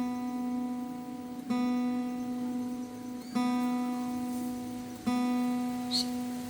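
Steel-string acoustic guitar's open B (2nd) string plucked as a tuning reference, in standard tuning at A440. One note rings and is plucked again three times, about every two seconds.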